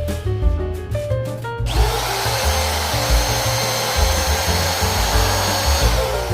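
Handheld power tool spinning up and running at a steady high whine for about four seconds, then stopping, as it works the wood of a guitar body's pickup cavity.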